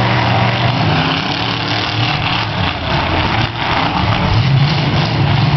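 Several demolition derby cars' engines running and revving together in a loud, steady drone.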